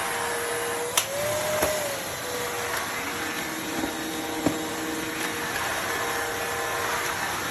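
Eureka cordless wet/dry floor vacuum running steadily, a motor hiss with a held whine. The whine lifts briefly in pitch after a click about a second in, and there is another click about four and a half seconds in.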